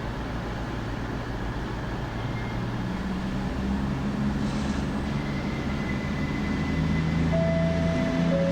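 A train running at a station platform: a steady low mechanical hum that grows slightly louder, with a thin high tone above it. Near the end a whine steps down in pitch.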